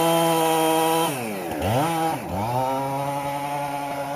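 Chainsaw engine running at high revs, then dropping sharply twice about a second in and holding steady at lower revs, before rising back to high revs near the end.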